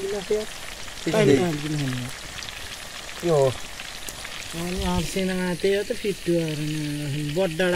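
Steady sizzling hiss of food frying, with people's voices talking over it at intervals.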